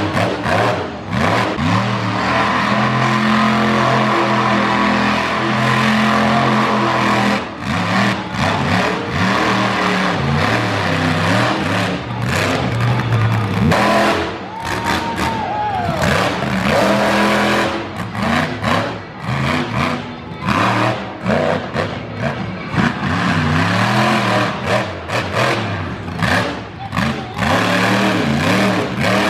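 Monster truck engine revving hard in repeated rising and falling bursts, with music playing underneath.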